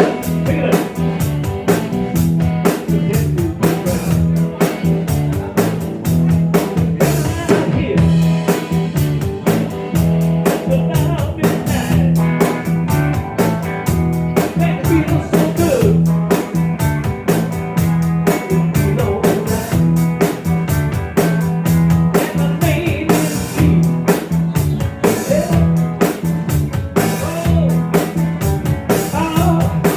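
Live rock band playing: electric guitar, bass and drum kit, with a steady bass line and drum beat and no clear lyric sung.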